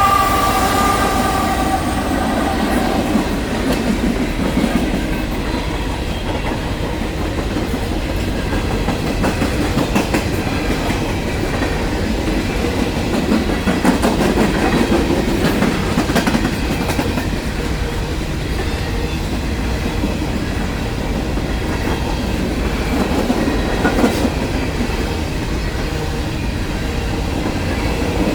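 Freight train cars rolling past, their wheels clacking and rattling over the rails in a continuous rumble with scattered sharp clicks. A locomotive horn's tones die away in the first two seconds.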